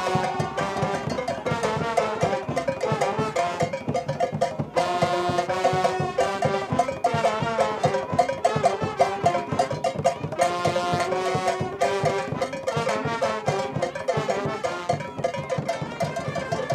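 A Cuban-style conga street band playing at full tilt: a brass melody with trombones over driving carnival percussion of drums and bells, with a very brief break about five seconds in.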